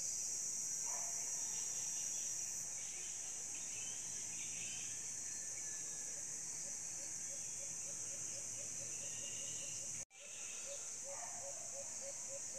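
Steady high-pitched chorus of insects in rural woodland. From about halfway through, a short low call repeats two or three times a second. The sound cuts out for a moment near the end.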